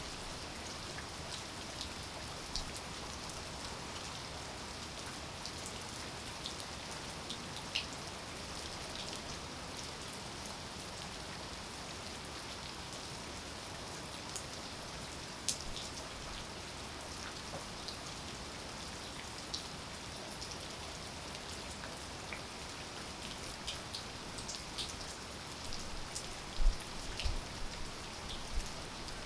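Steady rain falling, with scattered individual drops ticking sharply over the even hiss. Near the end comes a short cluster of louder, heavier drops.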